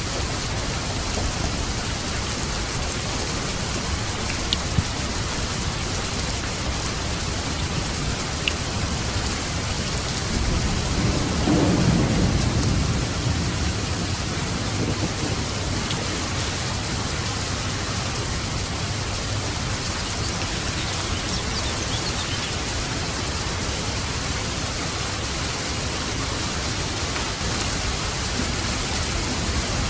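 Steady rain falling, a continuous even hiss. About ten seconds in, a low rumble of thunder swells up and fades away over a few seconds.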